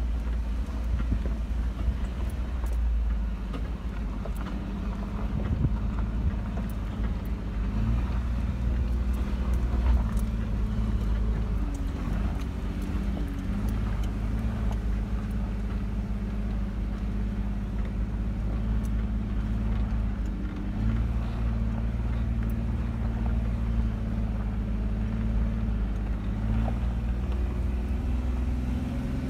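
Jeep engine running as it climbs a steep, rutted dirt hill, heard from inside the cabin; the engine note shifts a few times, with scattered light clicks and knocks over the rough trail.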